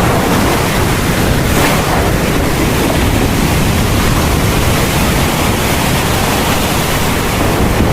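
Heavy rain pouring steadily in a thunderstorm, with a deep low rumble underneath and a brief louder swell about one and a half seconds in.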